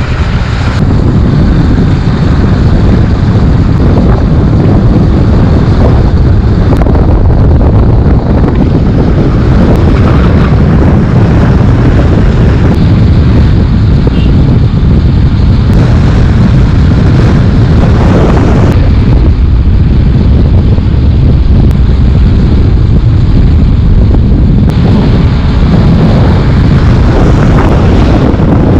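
Heavy wind buffeting on the microphone of a moving motorcycle, a loud steady low rumble with vehicle and road noise underneath.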